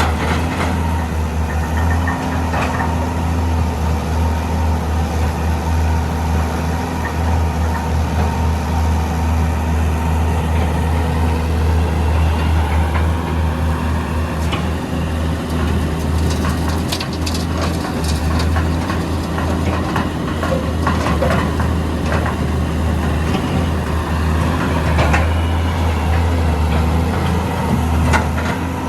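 Heavy diesel engine of a Hitachi EX200 excavator running steadily while it works, with scattered knocks and clatters, most of them between about 16 and 20 seconds in.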